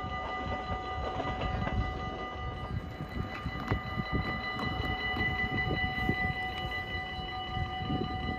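Low rumble and clatter at a railway level crossing just after a train has passed, with a few steady high tones over it and one louder knock near the middle.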